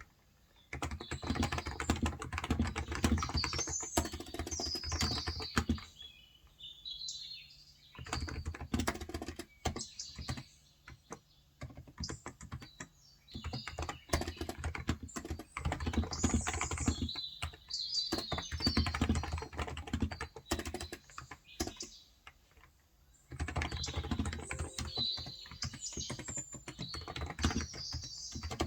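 Typing on a Cox Endeavor electrostatic-capacitive tenkeyless keyboard with 35 g switches, in quick runs of several seconds broken by short pauses. Small birds chirp in the background.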